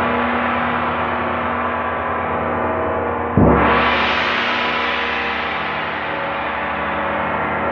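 A large struck metal instrument, gong-like, ringing with a long, slowly fading tone. It is struck again about three and a half seconds in.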